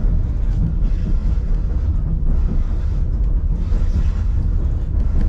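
Narrow-gauge excursion train running along the track, heard from aboard: a steady, loud low rumble of the rail cars rolling, with some brief swells of higher rattle and hiss.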